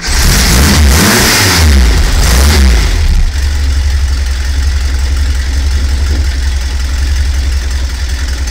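A 1968 Porsche 912's air-cooled flat-four firing up from cold, revved up and down for about three seconds, then settling into a steady idle.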